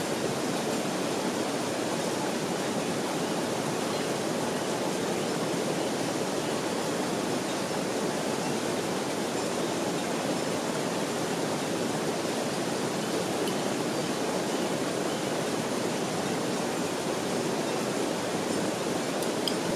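Steady, unbroken rushing of water, even and unchanging throughout: heavy rain or fast mountain runoff.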